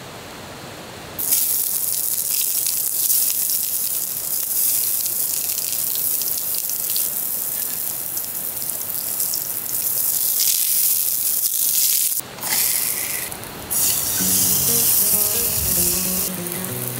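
Food sizzling in a hot pan, starting suddenly about a second in and briefly cutting out twice near the end. Background music comes in over it about two-thirds of the way through.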